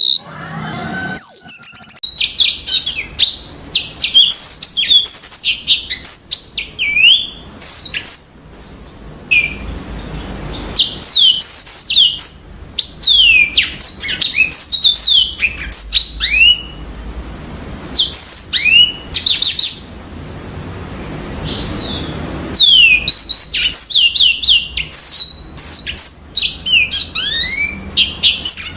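Yellow-fronted canary (Mozambique canary) singing: rapid runs of high, sweeping chirps and trills in long phrases broken by short pauses.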